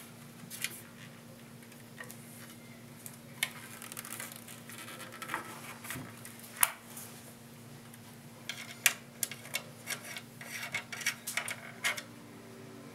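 Sharp clicks and light metallic rattles of a Seagate 3.5-inch hard drive being fitted into a computer case's drive bay, scattered at first, then a quick run of clicks in the last few seconds.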